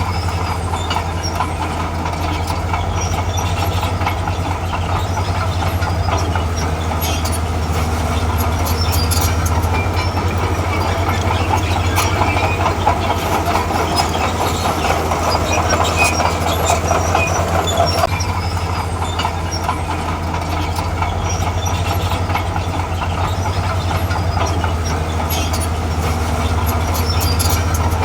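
Diesel engine of a tracked earthmoving machine running steadily under load, with the clanking and clicking of its steel tracks and a higher whine that stops about two-thirds of the way through.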